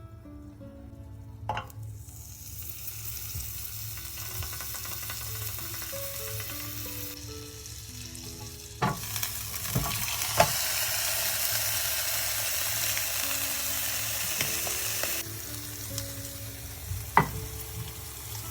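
Flattened chicken frying in hot fat in a pan with a steady sizzle. The sizzle builds from about two seconds in and is loudest from about nine seconds in, with a few sharp knocks, the loudest about ten seconds in and near the end.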